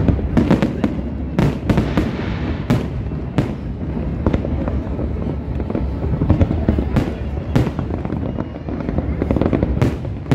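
Aerial fireworks shells bursting in a dense finale barrage: sharp bangs and cracks, about one or two a second, over a continuous low rumble.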